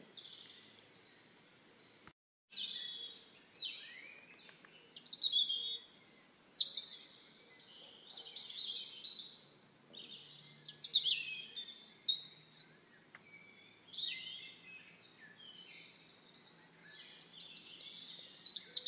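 Birds singing, with many quick chirps and falling trills one after another; the sound drops out briefly about two seconds in.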